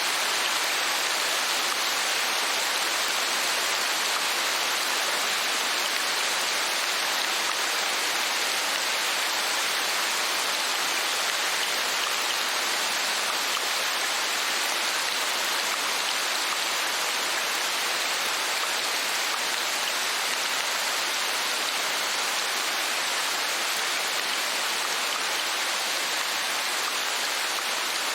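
Steady rainfall, an even hiss of many drops with no single drops or thunder standing out.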